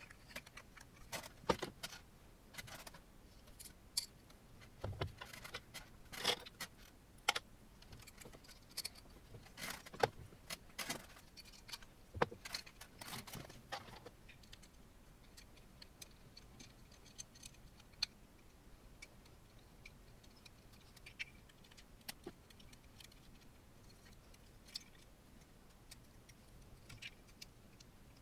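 Scattered clicks, clinks and rattles of small metal parts and tools being handled while assembling an Ender 3 Pro 3D printer kit. They come thick for about the first half, then thin out to an occasional click.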